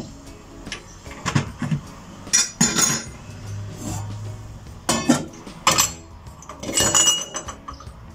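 Irregular clinks and knocks of hard objects, in about five clusters, some ringing briefly like dishes or utensils being handled.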